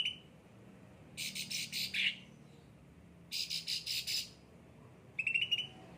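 Cucak ranting ('ocean green' yellow-headed form) singing: about three fast, rattling trill phrases of rapid harsh notes, each under a second long, the last one shorter and clearer.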